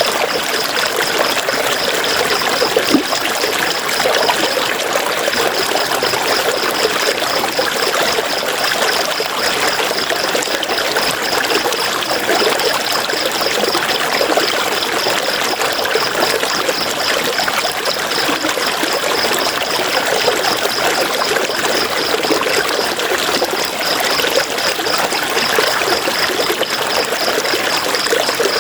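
River water running and splashing over rocks in a steady rushing wash. A high, fast-pulsing trill runs over it, breaking off briefly twice.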